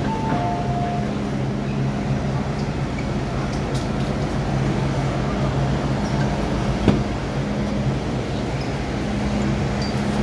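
MTR M-Train's two-note door warning chime sounding briefly at the start, then the train's steady low hum, with a single sharp click about seven seconds in.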